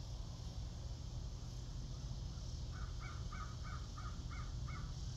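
A bird calling six short times in quick succession, about three calls a second, starting nearly three seconds in and stopping near the end, over a steady low background rumble.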